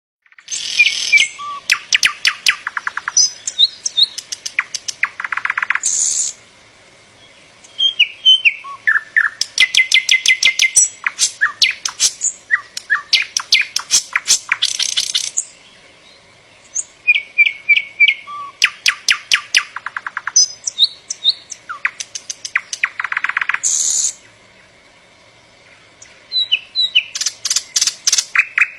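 A songbird singing long, complex phrases of rapid varied notes, fast trills and clicking runs. There are four bouts of about six to eight seconds each, with a pause of about two seconds between them.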